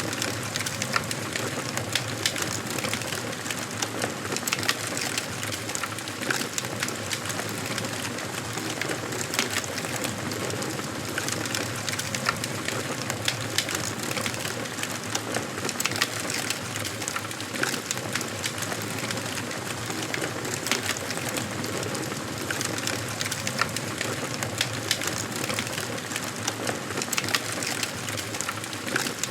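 Wood fire burning in a fireplace, crackling steadily with frequent small sharp pops.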